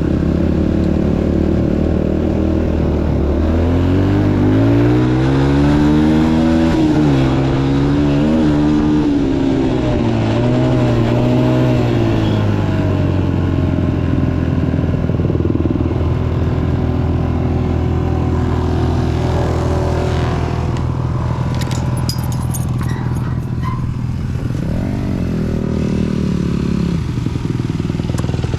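Dirt bike engine running under way, its revs rising and falling as the throttle is worked, with a long climb and drop in the first half and another near the end. A few brief rattles or clicks come about three-quarters through.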